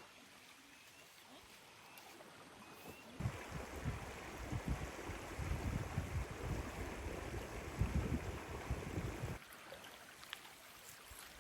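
River water rushing, with wind buffeting the microphone in uneven low gusts. The rush starts abruptly about three seconds in and cuts off abruptly near the end, after a quieter opening.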